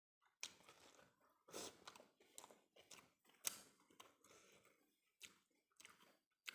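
A person chewing a mouthful of steamed rice, quiet and close up, with an irregular run of sharp crunchy bites and mouth clicks.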